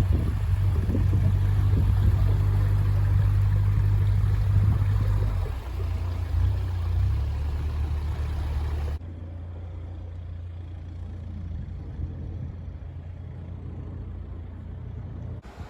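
An engine running with a steady low hum. About nine seconds in, the sound suddenly turns duller and quieter, then brightens again near the end.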